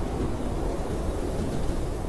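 Blizzard wind blowing steadily and heavily, a deep, low rushing with no gusts or breaks.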